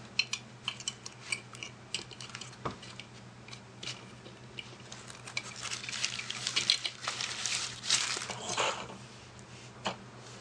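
Light clinks and taps of small hard objects being handled, with a busier stretch of rustling and clinking from about halfway in, over a steady low hum.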